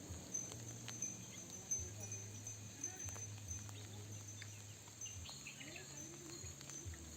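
Faint outdoor nature ambience: a steady thin high tone, scattered small clicks and a few faint bird chirps.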